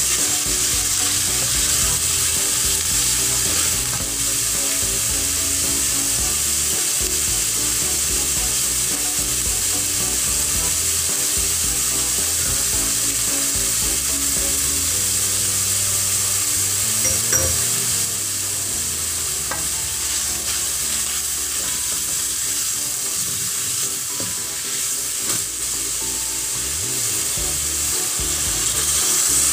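Onion and garlic frying in melted butter in a pan, a steady sizzle.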